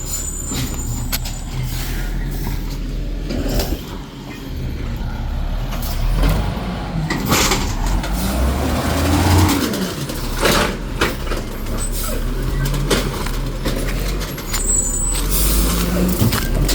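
Garbage truck's diesel engine revving up and down under load as it compacts trash. Sharp clanks and bangs sound throughout, with loud hissing bursts about seven and ten seconds in.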